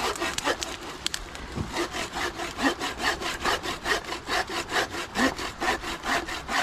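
Hand saw cutting through wood in quick, even back-and-forth strokes, settling into a steady rhythm about two seconds in.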